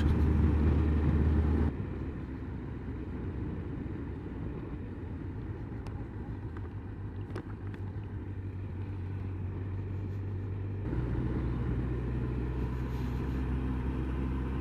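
Honda CBF motorcycle engine running with a steady low hum. It drops sharply to a quieter, lower hum about two seconds in as the throttle eases off, and picks up again a little near the end.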